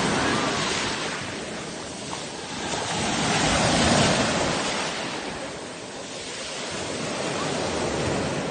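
Sea waves breaking and washing in, the surf swelling and falling back about every four seconds.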